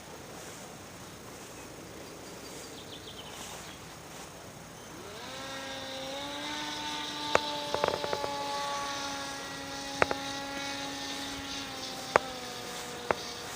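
The motor and propeller of a pusher-propeller airplane start up about five seconds in. The pitch climbs quickly, then holds a steady hum and sags slightly near the end. Several sharp knocks come over it, a cluster near the middle and single ones later.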